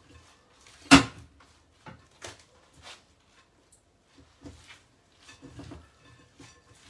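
Kitchen handling sounds: a sharp clack about a second in as something is set down or struck, then scattered lighter taps and knocks of utensils and dishes.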